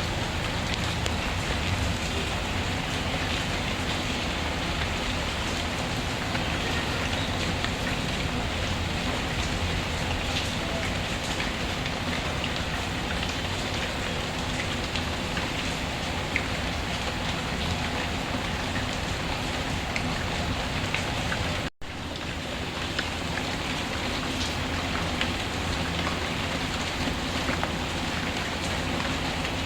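Steady rainfall with a few faint crackles from a wood fire. The sound cuts out for an instant about two-thirds of the way through, then resumes.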